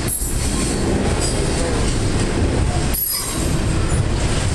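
Double-stack intermodal well cars rolling past: a steady rumble of steel wheels on rail, with high-pitched wheel squeal coming in near the start and again about three seconds in.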